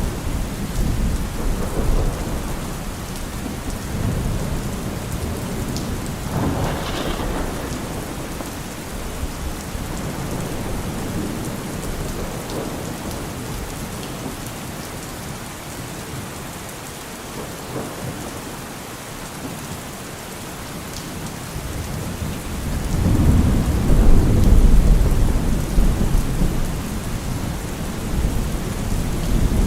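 Steady rain falling with rolling thunder: low rumbles come and go, a sharper clap comes about seven seconds in, and a long, louder rumble swells in the last third.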